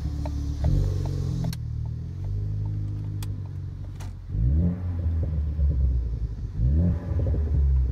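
Tuned Ford Focus ST engine and exhaust while driving. It cruises and lifts off with a few sharp exhaust crackles in the first half, then accelerates twice, its pitch rising about four and a half and seven seconds in.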